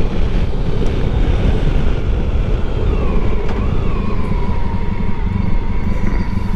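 Motorcycle engine running while riding, with heavy wind buffeting on the microphone. The engine's pitch dips slightly about three seconds in and then holds steady.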